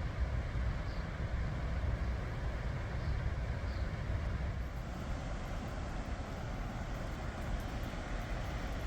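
Steady rush of a fast-flowing river below a waterfall, with a few faint high chirps in the first four seconds.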